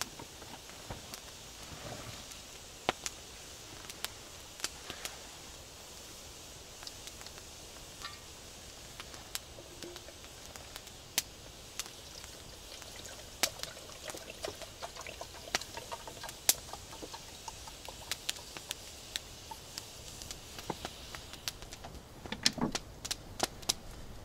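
Camp cooking gear being handled for a gas burner and water pot: scattered sharp clicks and small knocks of metal pieces over a steady hiss, with a denser clatter near the end.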